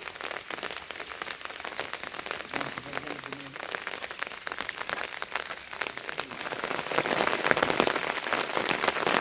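Rain falling steadily, a dense pattering of drops that grows heavier about seven seconds in.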